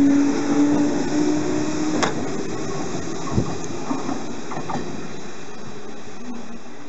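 Electric commuter train moving along the track with a steady motor hum. The hum stops with a click about two seconds in, leaving quieter rolling noise.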